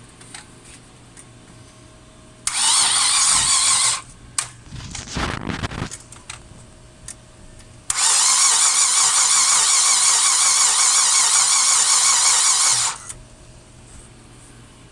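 Chevrolet Epica's starter cranking the engine twice without it starting: a short crank of about a second and a half, some uneven rumbling, then a longer crank of about five seconds, the hard-start condition. A faint steady hum lies underneath between the cranks.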